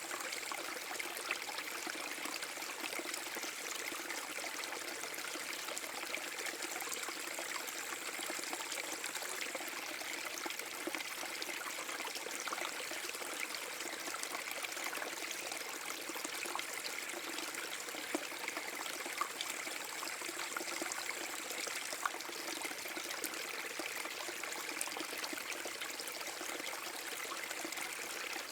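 A small forest-brook waterfall running steadily: water pouring and splashing over the drop, a continuous bright rush with small splashes flicking through it.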